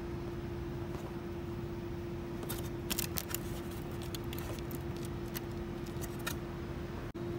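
Light metallic clicks and taps, a cluster about three seconds in and a few more later, over a steady hum.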